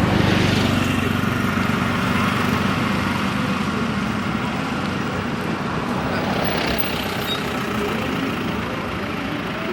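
Road traffic noise: a vehicle engine hums close by for the first few seconds, then fades, over a steady wash of passing traffic.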